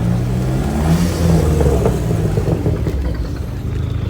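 A car engine revving: its pitch rises over the first second or so, then drops back to a steady run.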